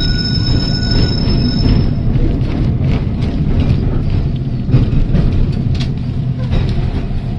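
Heritage electric tram running on rails with a steady low rumble. Its steel wheels squeal on the rails in a high, steady ring that stops about two seconds in, and a few sharp clacks follow later.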